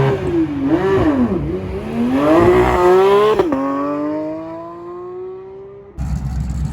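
A car engine revving up and down, then accelerating away: its pitch climbs, drops sharply at a gearshift about three and a half seconds in, climbs again and fades as the car leaves. Near the end the sound cuts abruptly to a steady low engine rumble.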